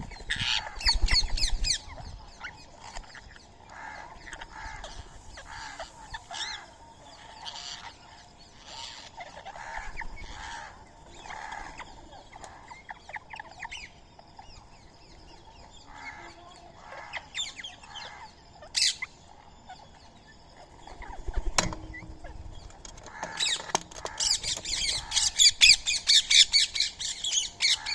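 Birds squawking and calling again and again, with a loud burst of calls about a second in and a fast, loud chatter over the last few seconds. A single sharp knock sounds about two-thirds of the way through.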